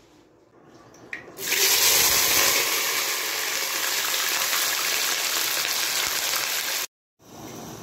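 Sliced onions, garlic and green chilli sizzling in hot oil in a pot, a loud steady hiss that starts about a second and a half in. It cuts off abruptly near the end and comes back quieter.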